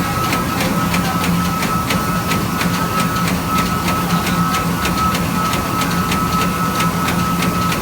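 Eight-spindle CNC machine running: a steady high-pitched whine over a low hum, with sharp regular ticking about four times a second.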